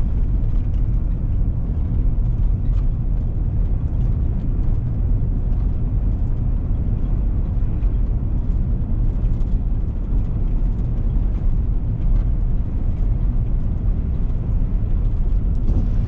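A car driving at steady speed, heard from inside: a constant low engine and road rumble.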